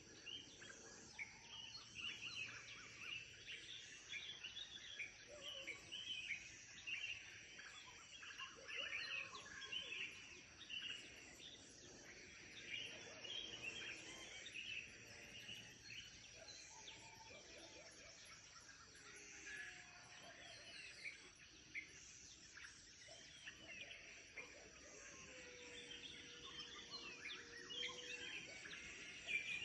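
Faint morning chorus of many birds chirping and calling over one another, with a steady high insect drone underneath. A low whistle-like note is held for a few seconds near the end.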